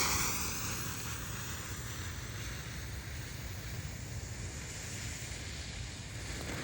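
Hiss of a lit fireworks fuse burning down, fading over the first second to a faint steady hiss over a low rumble. Right at the end a louder hiss begins to build as the firework fountain starts to spray.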